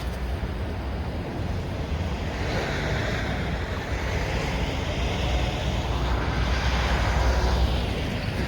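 Vehicle driving past, its noise swelling from about two seconds in and fading near the end, over a steady low engine and wind rumble.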